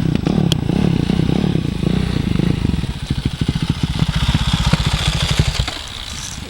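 Small dirt bike engine running, then slowing to separate firing pulses and cutting out about five and a half seconds in.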